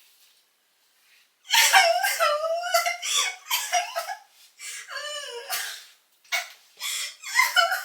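A woman laughing in loud bursts, starting about a second and a half in, pausing briefly, then laughing again near the end.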